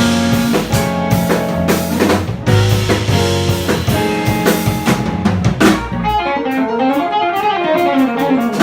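Live jazz band of guitar, piano, bass and drum kit playing a tune. About six seconds in the drums drop away, leaving a winding melodic run that rises and falls.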